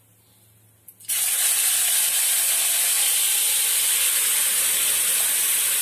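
Red chillies and tomatoes tipped into hot oil in a kadhai, sizzling from about a second in with a loud, steady hiss.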